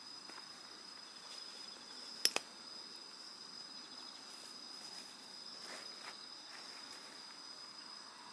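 Night insects, such as crickets, trilling in one steady high-pitched note over faint background hiss. Two sharp clicks in quick succession about two seconds in.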